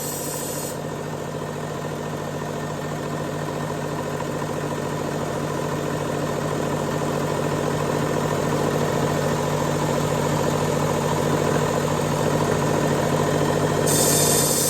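Powered belt knife sharpener running steadily on its coarse X200 abrasive belt while a chef's knife edge is ground down to a new angle, with a high hiss that drops away about a second in and comes back near the end.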